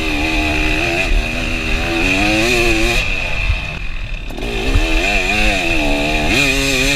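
KTM 300 two-stroke dirt bike engine running under riding, its pitch rising and falling with the throttle, eased off briefly about halfway through and then opened up again.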